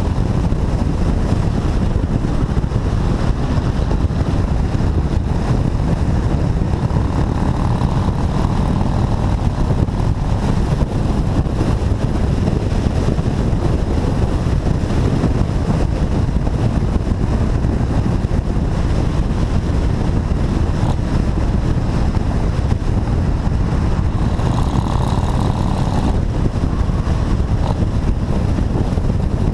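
Motorcycle running steadily at road speed, its engine mixed with heavy wind rumble on the microphone.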